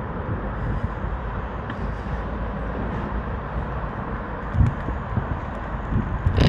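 Steady wind and road rumble on the microphone of a moving e-bike, with a single bump about four and a half seconds in and a few clicks near the end.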